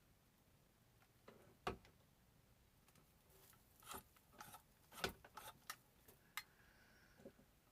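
Faint, scattered short clicks and scrapes of a soldering iron tip being worked: dipped in flux and wiped on steel wool during tinning.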